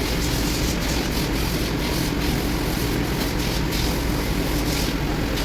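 Steady drone of a running engine, with scattered light clicks.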